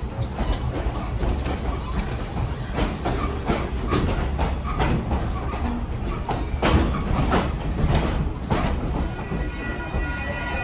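Passenger train rolling along, a steady rumble with irregular clicks and clanks from the wheels and cars. Near the end the train's horn starts to sound, a steady chord of several high tones.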